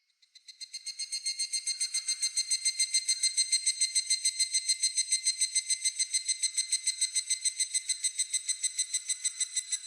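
A higurashi (evening cicada) calling: a rapid, even pulsing of about eight or nine pulses a second that swells up over the first couple of seconds and then holds steady.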